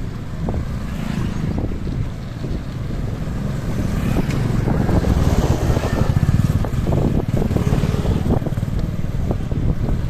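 Wind buffeting the microphone of a camera riding on a moving electric bicycle: a heavy low rumble with scattered short knocks, getting louder about four seconds in.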